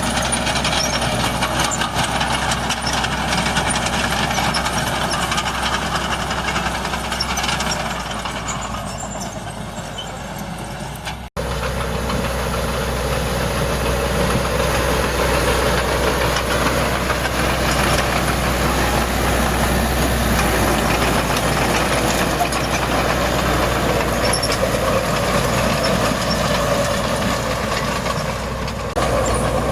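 Heavy diesel earthmoving machinery running steadily. The sound cuts out for an instant about eleven seconds in, then carries on.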